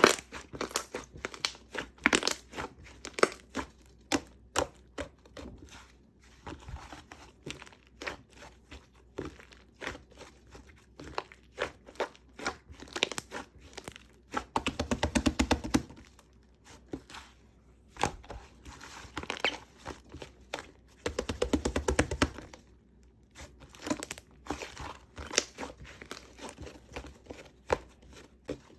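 Black slime mixed with shaving foam being squished and stretched by hand, giving irregular sticky pops and clicks. Two stretches of rapid crackling come about halfway through and again about three quarters in.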